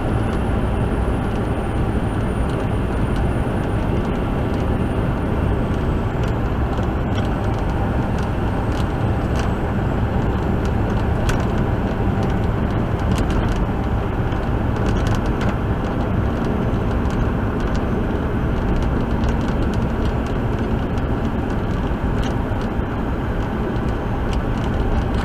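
Steady engine drone and road noise of a tractor-trailer rolling along, heard inside the cab, with a few faint clicks and ticks about halfway through.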